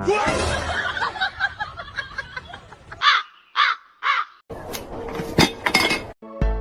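Three harsh caw-like calls from a bird, about half a second apart, after about three seconds of dense, noisy chatter.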